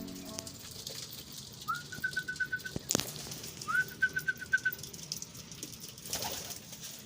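Racing pigeons in a loft, with two short high trills, each rising into a quick run of pulses, about two and four seconds in, and a sharp click between them.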